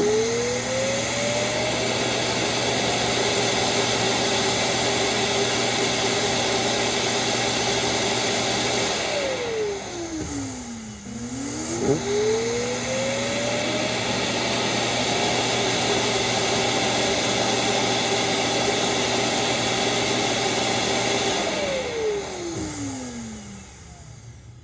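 Roomba Combo 10 Max's base station running its loud evacuation fan to empty the robot's dustbin. The motor whines up to speed and runs steadily, winds down about nine seconds in, spins back up a couple of seconds later for a second run, and winds down again near the end.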